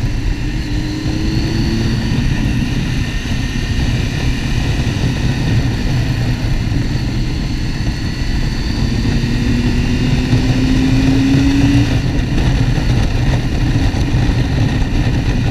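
Motorcycle engine running at road speed under heavy wind rush, as heard from the riding bike. The engine note climbs about halfway through as the bike accelerates.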